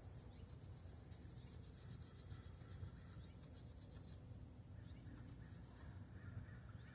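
Faint rapid scratching or rubbing, which stops about four seconds in, over a low steady rumble.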